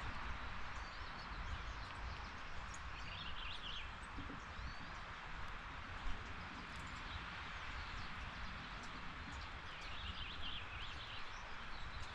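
Small birds chirping in short bursts, about three seconds in and again near ten seconds, over a steady background hiss and low rumble; a single sharp tap about six seconds in.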